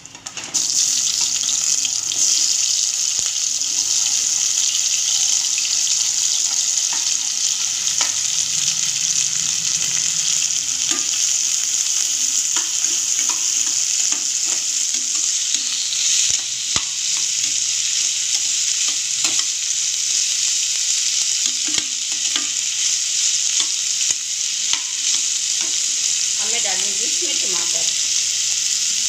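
Chopped onions, garlic and green chillies tipped into hot oil in a kadhai, setting off a sudden loud sizzle about half a second in, then frying steadily. A slotted spatula stirs them, with occasional clicks and scrapes against the pan.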